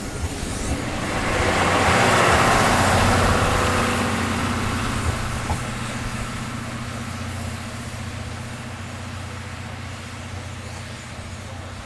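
Steam-hauled train passing: a rush of steam hiss and running noise over a low steady hum, swelling about two seconds in and then slowly fading away.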